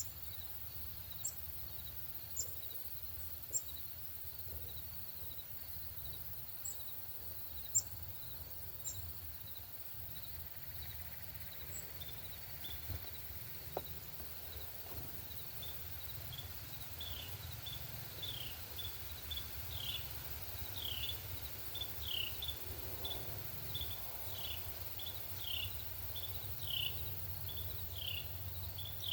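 A songbird calling a long series of short, downward-sliding whistled notes, about two a second, which grow louder in the second half. Underneath runs a steady, even high chirping, with a low outdoor rumble.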